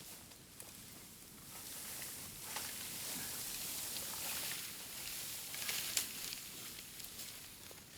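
Bamboo bonfire hissing and crackling, the hiss swelling after a second or so, with scattered small snaps and one sharp pop about six seconds in. The bamboo is damp.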